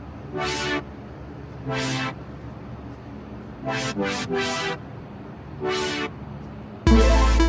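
Car horn tooted in five short blasts at uneven gaps. Loud electronic music cuts in near the end.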